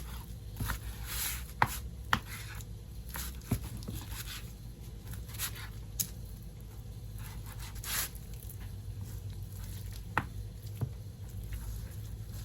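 Kitchen knife cutting raw chicken breast into pieces on a cutting board: irregular knocks of the blade against the board, with a few short scraping sounds.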